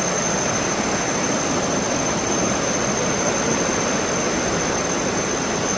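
Thomson's Falls, a 74-metre waterfall, rushing in a steady, unbroken roar of falling water, with a thin steady high whine over it.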